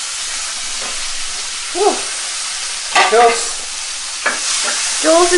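Green capsicum strips sizzling as they fry in hot butter and oil in a frying pan, stirred with a spatula. A few short pitched sounds rise over the steady sizzle.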